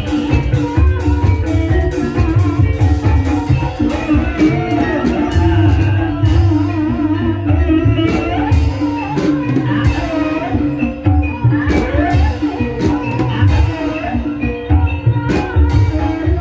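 Gending ebeg: Banyumasan gamelan music accompanying a kuda kepang dance. Drums beat in the low register under sustained metallophone tones, a wavering melodic line and frequent sharp metallic clicks.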